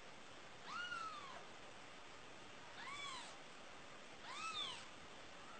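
A kitten mewing three times, each a short high-pitched call that rises and falls, over a faint steady hiss.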